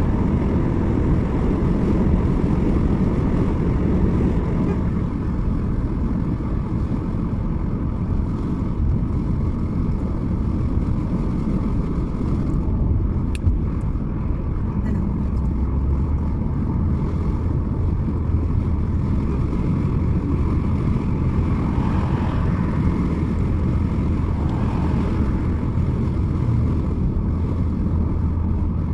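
Steady road and engine rumble of a car being driven, low and even throughout.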